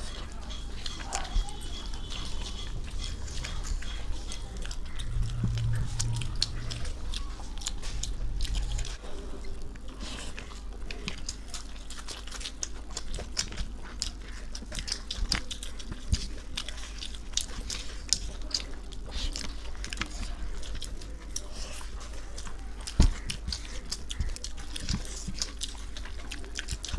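Close-up eating sounds of chicken biryani: chewing and biting with many irregular small mouth clicks. There is one louder knock a few seconds before the end.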